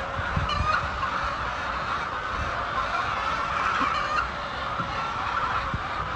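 A large flock of chickens clucking and calling all at once, a dense, unbroken chatter of many overlapping voices.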